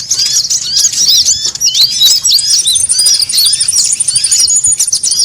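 Konin sunbirds calling busily: many rapid, overlapping high chirps. About halfway in, a thin, steady high trill joins them and runs on.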